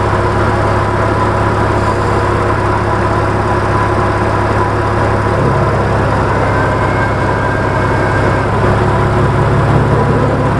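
A 2004 Porsche Boxster's flat-six engine idling steadily, its low note stepping up slightly about halfway through.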